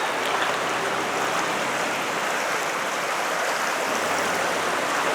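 Fast-moving floodwater of a swollen river rushing steadily.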